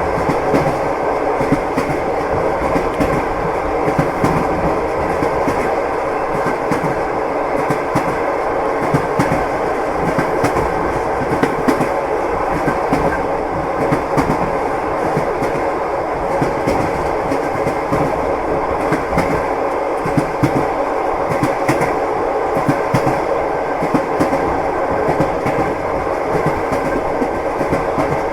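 Passenger train running steadily, heard from inside the carriage: a continuous running noise with the wheels clicking over the rail joints.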